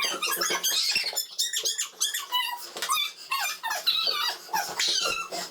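Rubber balloons squeaking over and over as they are batted about and rub against hands and each other, with many short, high, sliding squeals.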